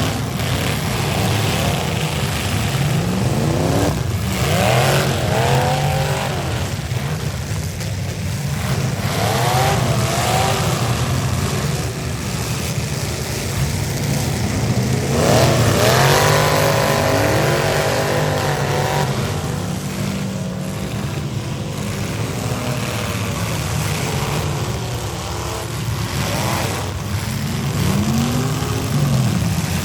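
Several demolition derby cars' V8 engines revving hard, their pitch rising and falling again and again as the cars accelerate, with a few sharp bangs of impact along the way.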